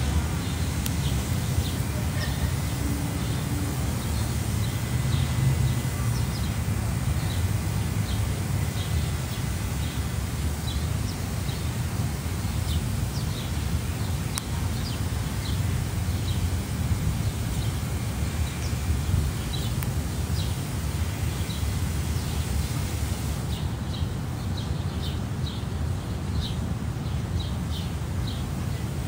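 Small birds chirping over and over, short high chirps several times a second, over a steady low rumble.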